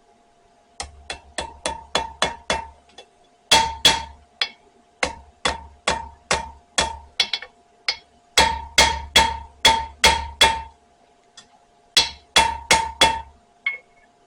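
Ball peen hammer striking hot spring steel on a small anvil in quick runs of ringing metallic blows, about three to four a second, with short pauses between runs. The blows flatten and drive in the curled handle loop of a forged knife.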